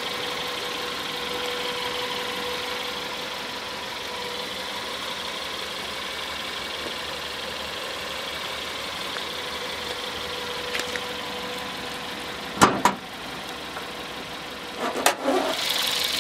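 2013 FAW V5's 1.5-litre inline-four idling steadily with a faint whine. Two sharp clunks cut in, one about three-quarters of the way through and one near the end, as the bonnet is released and lifted.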